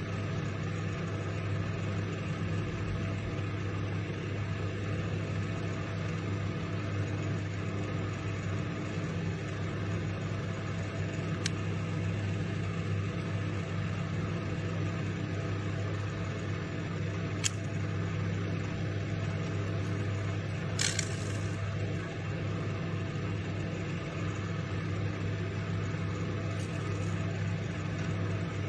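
Microwave oven running with a steady mains hum, broken by a few sharp pops and one short crackle from whatever is heating inside.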